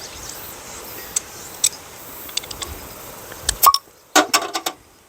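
A series of small clicks and taps from someone fiddling to open a container or package by hand, with a quick cluster of sharp clicks near the end.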